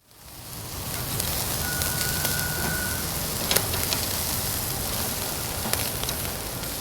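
Barbecue over a Uniflame Fire Grill: a steady hiss with scattered sharp crackles and pops, fading in at the start.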